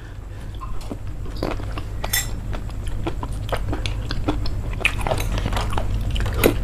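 Close-miked chewing of agar jelly balls and grapes, with scattered small clicks of metal spoons against a plate and bowl.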